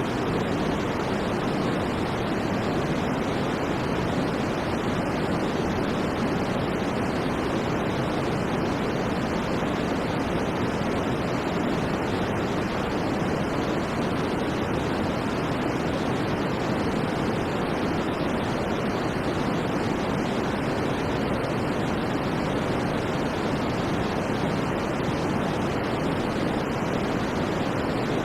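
Steady, unchanging white noise: an even hiss with no breaks, fuller in the low and middle range than in the highs.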